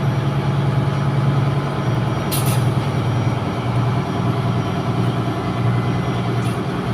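Steady, loud drone of running diesel machinery in a ship's engine room, with a short sharp high-pitched sound about two and a half seconds in.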